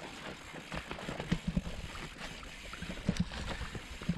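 Gravel bike rolling slowly down a rough, rutted dirt road, its tyres crunching and the bike rattling with many small knocks and thumps.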